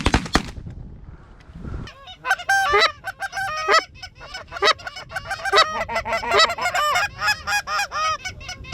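A shotgun blast or two at the very start, then, from about two seconds in, many goose honks in quick succession, a flock of geese honking over the decoy spread.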